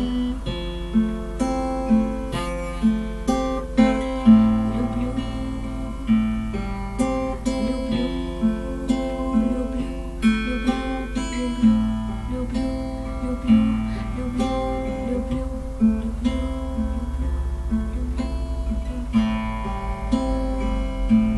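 Acoustic guitar played live without voice, a steady pattern of picked notes and strums with sharp attacks that ring on.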